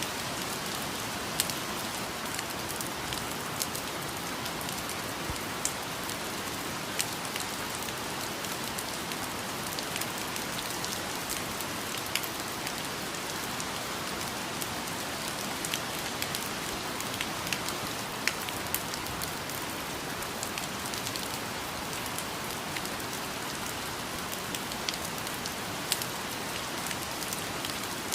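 Steady rain falling on leaves and other surfaces, a continuous hiss with frequent distinct drops ticking through it at irregular moments.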